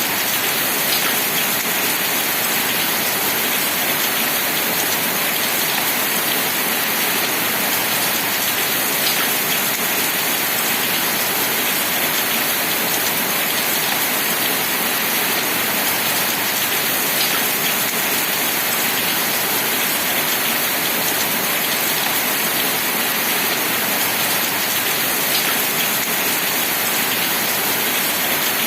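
Steady rain falling: an even, unbroken hiss, with a few faint single drop ticks standing out now and then.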